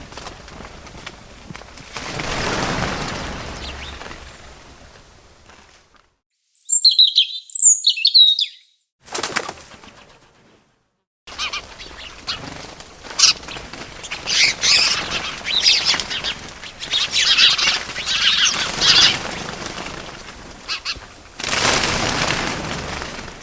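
Birds: rushes of wing flapping, a few clear high chirps, then a long stretch of busy chirping.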